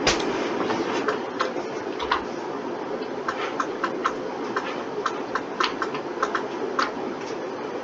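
Computer mouse and keyboard clicking at irregular intervals, sometimes several clicks in quick succession, over a steady low hum.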